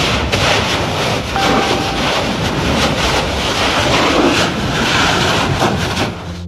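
Kilauea lava fissure roaring: a loud, rough, continuous rushing noise that cuts off suddenly near the end.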